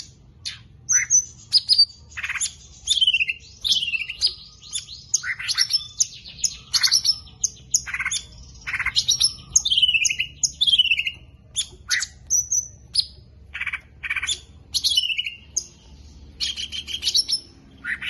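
A songbird singing a varied, rapid song: short down-slurred whistles, fast trills and chattering notes in phrases of about a second, with brief pauses between them.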